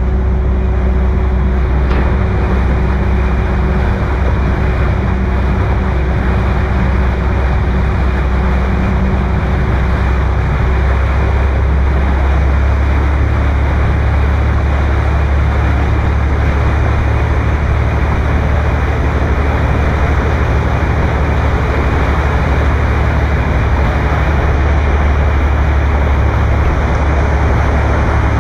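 Motorboat running underway: a steady, loud engine drone mixed with wind and water noise.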